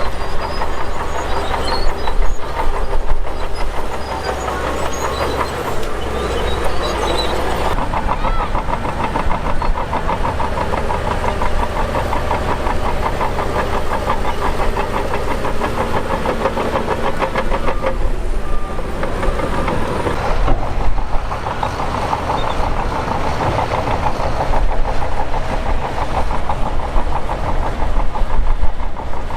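Shantui DH17 crawler bulldozer at work: its diesel engine running under load while the steel tracks clatter in a fast, steady rhythm.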